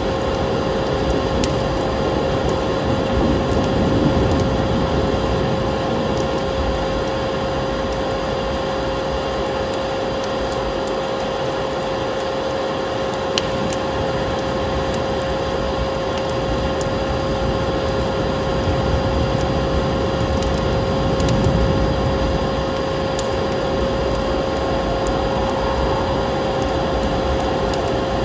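Vacuum cleaner running steadily, a constant whine over the rush of its airflow, with scattered small crackles of a wood fire.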